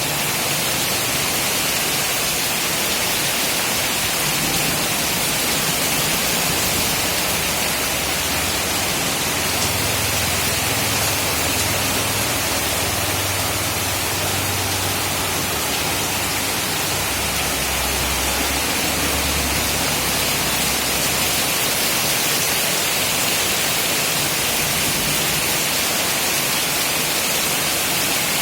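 Heavy tropical rain falling hard, a steady dense hiss, with a low rumble coming and going in the middle.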